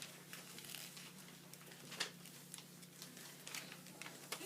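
A sheet of paper being folded and creased by hand: a few short crinkles and rustles, the sharpest about two seconds in, over a faint steady low hum.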